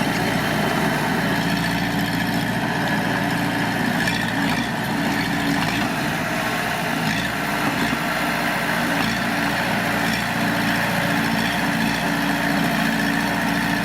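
Heavy earthmoving machine's diesel engine running steadily, with an even, unchanging drone.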